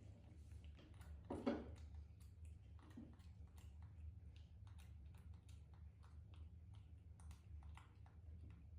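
Faint, irregular small clicks and taps over a low steady hum, with one brief louder sound about a second and a half in.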